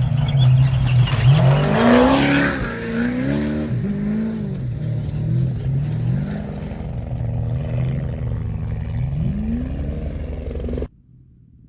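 Trophy truck engine revving up and down repeatedly as the race truck drives hard past, with a burst of rushing noise about two seconds in. The sound cuts off suddenly near the end.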